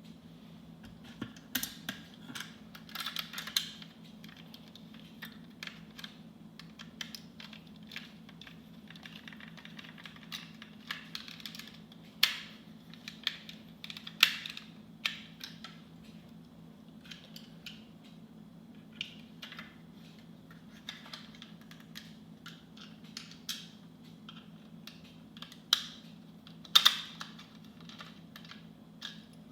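Irregular clicks and taps of hard plastic toy parts being handled and fitted together, with a few sharper knocks about twelve, fourteen and twenty-seven seconds in. A faint steady low hum lies underneath.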